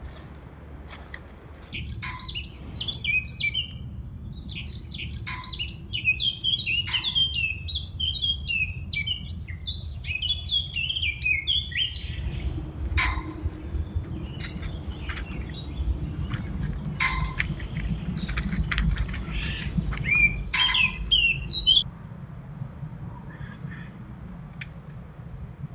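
Small birds chirping and singing, a rapid string of short high notes that starts about two seconds in and stops near the end. A low steady rumble runs underneath.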